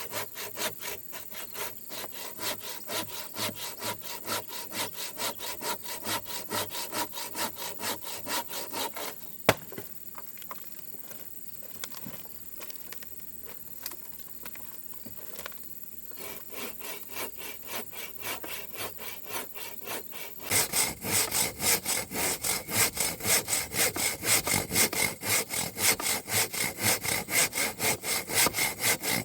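Hand saw cutting through wood for firewood in steady back-and-forth strokes, about two to three a second. The sawing stops for several seconds a third of the way in, resumes softly, and is much louder over the last third.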